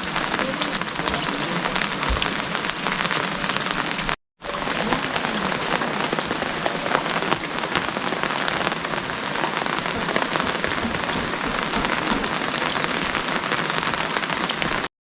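Steady rain, heard as a dense, even hiss, with a brief moment of total silence a little after four seconds in.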